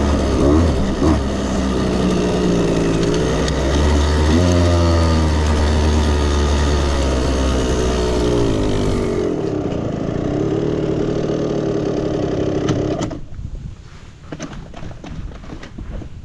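KTM 65 two-stroke dirt bike engine running, revving up and down in pitch as it is ridden. About thirteen seconds in the engine sound drops away sharply, leaving a quieter low rumble with scattered clicks and knocks.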